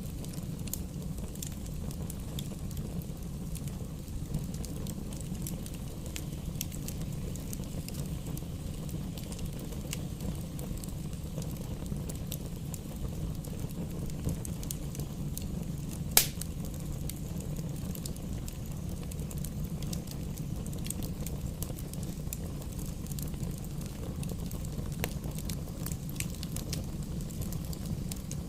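Campfire burning with a steady low rumble and frequent small crackles, and one sharp loud pop a little past the middle.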